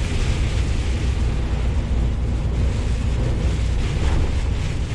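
Steady low rumble of a truck driving on the highway, heard inside the cab: engine and road noise with wind and rain against the cab.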